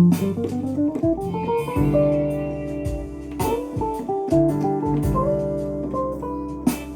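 Korg Pa1000 arranger keyboard playing a factory style: a guitar-like lead melody over bass and drum accompaniment, with a rising run of notes in the first two seconds.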